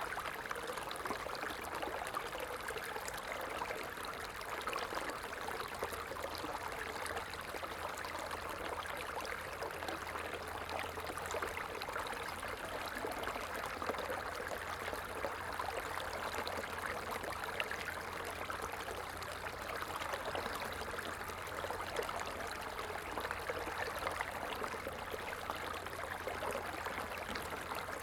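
Stream water running and trickling steadily over rocks, a continuous even babbling.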